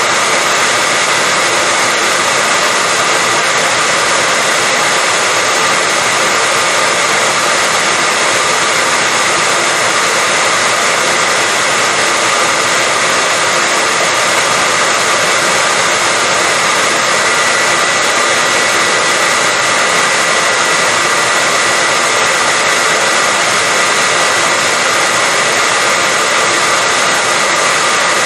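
Hair dryer running steadily: an even rushing of air with a steady high whine from the motor, unchanging throughout.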